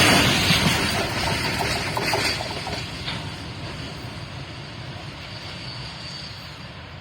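Train passing at speed and moving away, its rumble fading steadily, with a few wheel clicks over the rail joints in the first three seconds.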